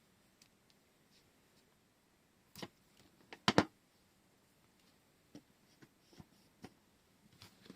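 A handful of light clicks and taps from small craft items being handled, the loudest a quick pair about three and a half seconds in, with fainter ones spaced out near the end.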